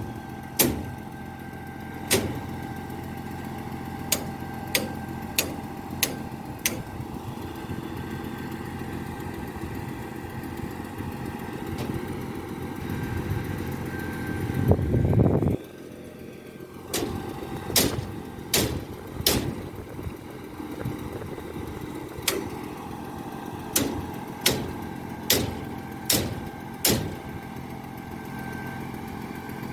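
Concrete pump truck's engine running steadily with a constant whine from the machinery, broken by sharp knocks every second or two. About fifteen seconds in, the sound swells louder and then cuts off suddenly.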